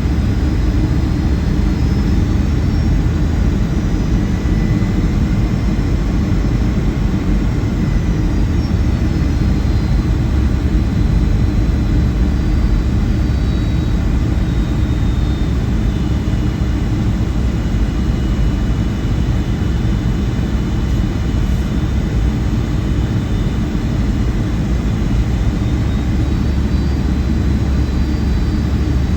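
Inside the cabin of a Boeing 757-200 airliner in flight: a steady low rumble of jet engines and rushing air, with faint high whines that drift slowly up and down in pitch.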